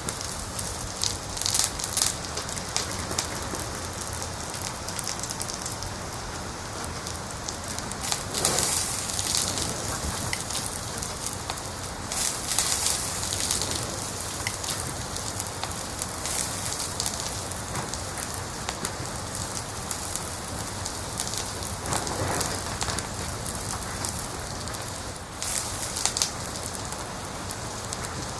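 Wood fire crackling in a fireplace: a steady hiss with scattered pops, and several short flurries of denser high-pitched crackling.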